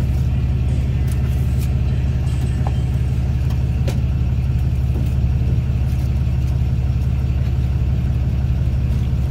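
Car engine idling, a steady low drone heard from inside the cabin, with a few faint clicks about three to five seconds in.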